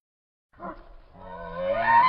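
Giraffe call as presented in a giraffe-calls video: after a brief silence, a short call, then a pitched call that rises and swells into a loud held note near the end.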